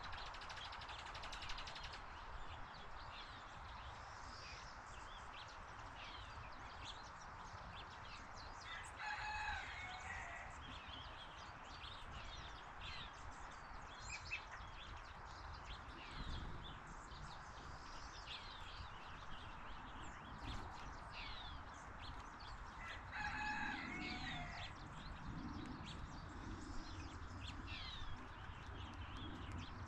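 Birds chirping throughout, with two longer drawn-out calls, one about nine seconds in and another about twenty-three seconds in, over a steady background hiss.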